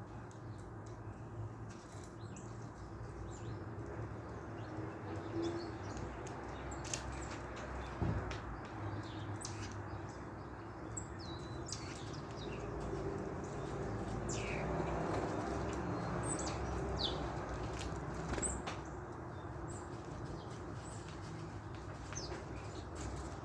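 Small birds chirping in short, high calls scattered throughout, with wings fluttering now and then, over a steady low hum.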